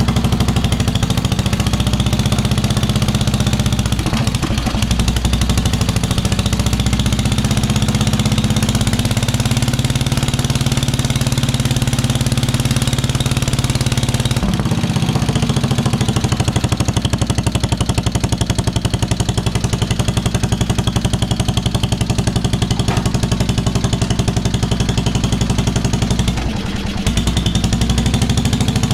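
1973 Wheel Horse lawn tractor's 10 hp Kohler single-cylinder engine running steadily through a homemade galvanized-pipe exhaust stack. The engine note wavers briefly a few times, most plainly near the end.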